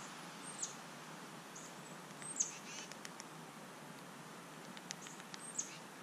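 A songbird giving three sharp, high chip calls, each a quick downward note, the middle one loudest. A few faint ticks come between them.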